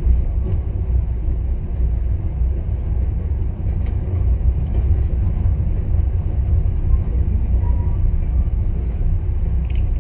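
Passenger train car rolling along the track, heard from on board: a steady low rumble with a few faint clicks.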